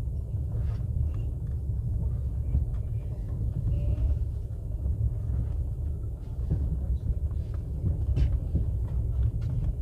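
Steady low rumble of a moving passenger train heard from inside the carriage, with a few faint clicks and rattles over it.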